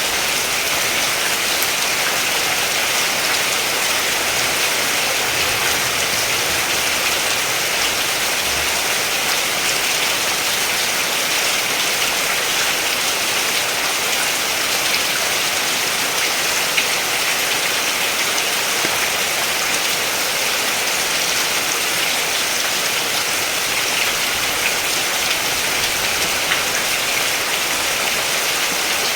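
Steady rain falling, an even hiss with occasional distinct drops.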